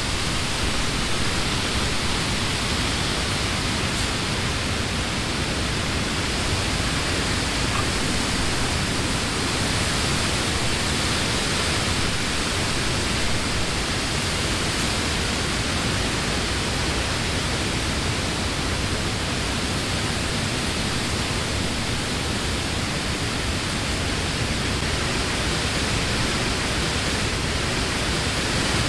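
Wind blowing steadily through the leaves of trees, a constant even rush.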